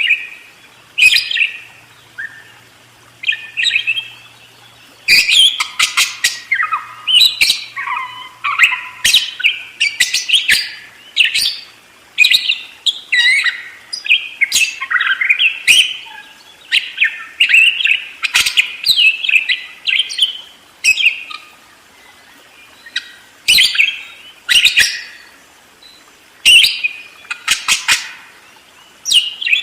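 Budgerigar warbling and chattering: fast runs of sharp high chirps and squeaky warbles, in bursts broken by short pauses.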